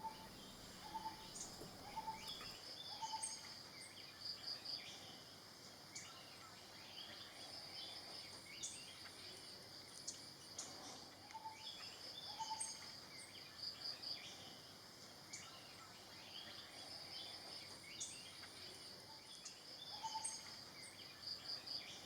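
Faint forest ambience: an insect trilling steadily at a high pitch, swelling in pulsing runs, with scattered bird chirps and calls, including short low notes repeated in small groups.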